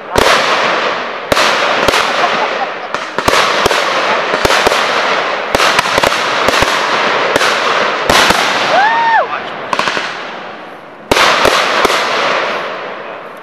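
Aerial fireworks bursting in quick succession: about a dozen sharp booms, each with a long echoing decay. A lull of about two seconds comes before a last cluster of bursts near the end.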